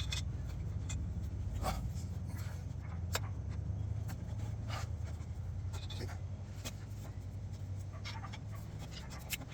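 A steady low hum with scattered light clicks and taps as bolts, a gasket and exhaust parts are handled with tools.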